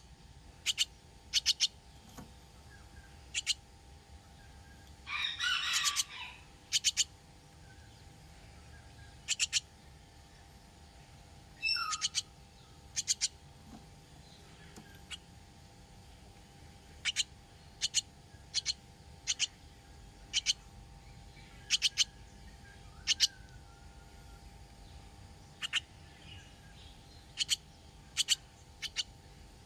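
Rescued baby bird chirping: short, high peeps, often in quick pairs, repeated every second or two, with a longer run of calls about five seconds in. A faint steady hum sits underneath.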